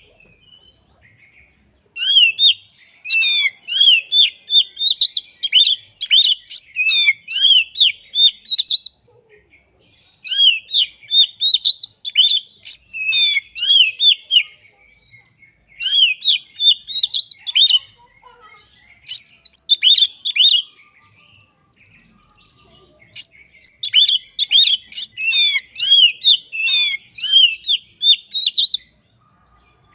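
Oriental magpie-robin (kacer) singing loudly: long phrases of rapid, high, sweeping notes in varied patterns, coming in bursts of a few seconds with short pauses between them.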